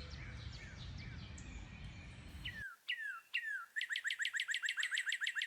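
Several birds chirping together over a low rumble of background noise. About two and a half seconds in, this cuts to a single bird giving three sharply falling whistled notes, then a fast trill of about eight notes a second.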